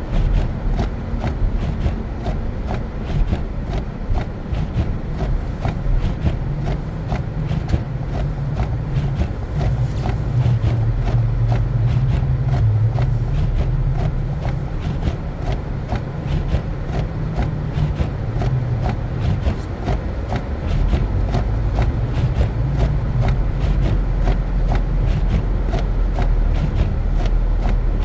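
Car driving on snowy roads: a steady low rumble of engine and tyres that swells a little twice, with faint regular clicks throughout.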